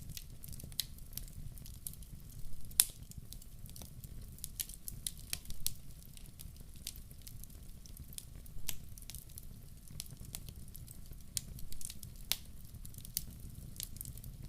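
Wood fire burning in a fireplace: irregular sharp crackles and pops over a low steady rumble, with a louder pop about three seconds in and another near the end.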